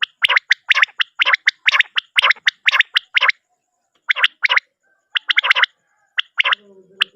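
Common quail calling: fast runs of short, sharp notes, several a second, broken by short pauses about three seconds in and again about four and a half seconds in.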